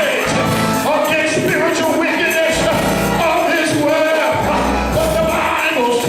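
Gospel church music: voices singing over a band, with sustained low notes underneath.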